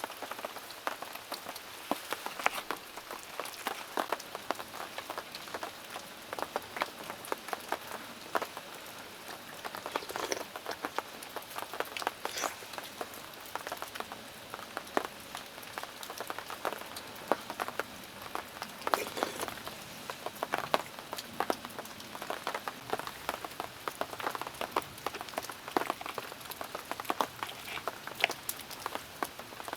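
Heavy rain falling, countless drops striking surfaces in a dense, irregular patter of sharp little ticks over a steady hiss.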